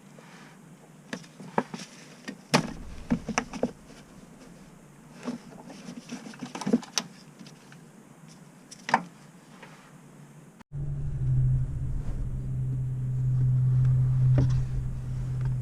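Scattered sharp clicks and knocks, as of metal tools being handled. After an abrupt cut about ten seconds in, a small electric motor runs with a steady low hum.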